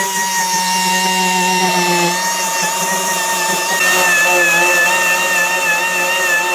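An electric power tool running continuously with a steady whine that wavers slightly in pitch, its tone shifting about two seconds in and again about four seconds in.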